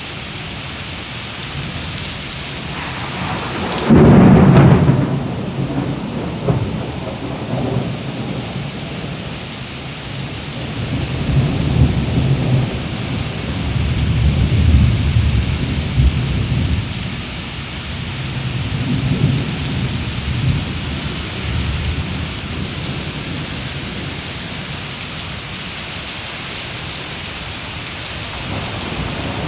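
Heavy rain falling steadily in a thunderstorm, with a sudden loud thunderclap about four seconds in and further low rumbles of thunder later on.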